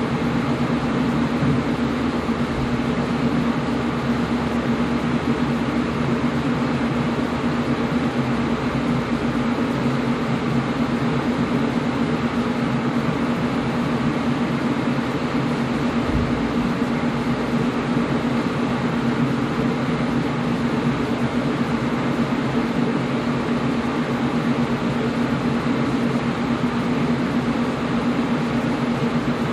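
Air conditioner running steadily: an even rushing noise with a constant low hum.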